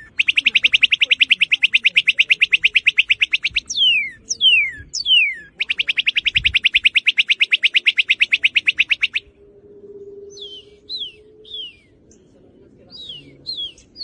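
Northern cardinal singing: two long, rapid trills of about a dozen repeated slurred notes a second, each led in by sharp downslurred whistles, then a few softer downslurred notes near the end.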